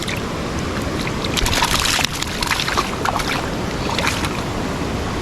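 Mountain stream rushing steadily, with scattered short, sharp sounds over it, thickest about one and a half to two seconds in.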